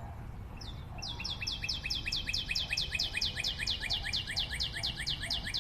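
Rapid, even run of short, high bird chirps, about seven a second, starting about a second in.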